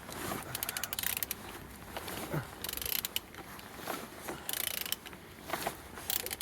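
A Z18XER four-cylinder petrol engine being turned over by hand with a ratchet wrench: runs of quick ratchet clicks and short rushing strokes as each pull turns the crank. The engine turns freely.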